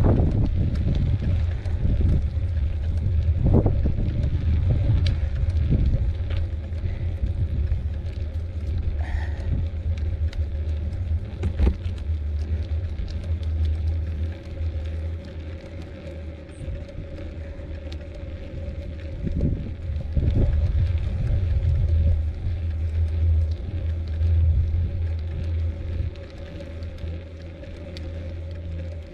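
Wind buffeting the microphone on a moving bicycle, a strong, fluttering low rumble, with scattered rattles and clicks from the bike over the trail. A faint steady hum comes in about halfway.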